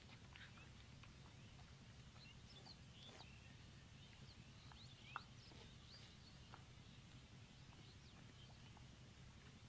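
Near silence: faint outdoor ambience with a low hum and scattered short bird chirps, and a single faint click about five seconds in.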